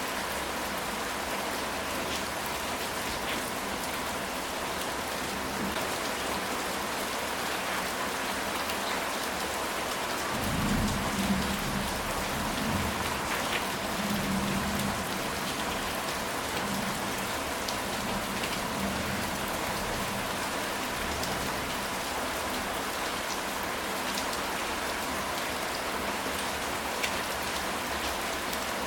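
Steady rain falling on a ceramic tile roof, an even hiss of drops. About ten seconds in, a low rumble of thunder swells and fades over several seconds.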